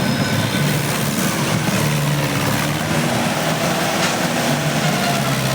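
Tractor's diesel engine running steadily, its pitch shifting slightly now and then.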